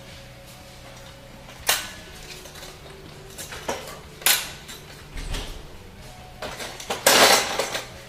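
Metal clanks and clicks from a Sea Pro F15S outboard's tilt and trim mount being worked by hand. Sharp knocks come about two and four seconds in, with a louder, longer clatter near the end.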